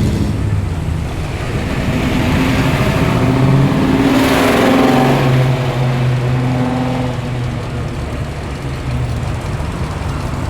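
A muscle car's engine running as the car rolls past at low speed. It grows louder to its closest point about four to five seconds in, then fades as it moves off.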